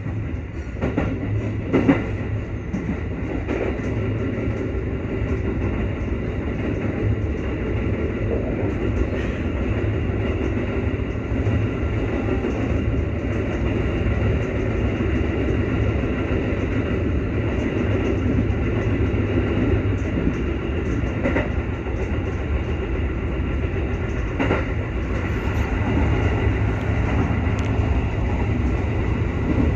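JR West 221 series electric train running at speed, heard from inside the car: a steady low rumble of wheels on rail, with a few sharper clicks over rail joints.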